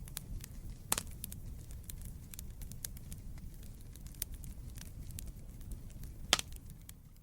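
Wood fire burning in a fireplace: a steady low rumble of flames under frequent small crackles, with two loud pops, one about a second in and one near the end.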